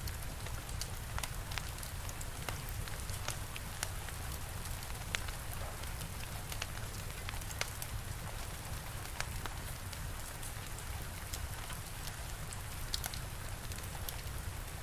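Steady rain mixed with a wood fire crackling: a continuous hiss over a low rumble, broken by many scattered sharp pops and ticks.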